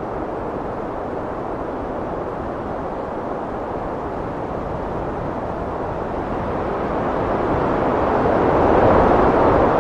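Heavy wind blowing steadily with a deep rushing noise, swelling into a stronger gust during the last few seconds.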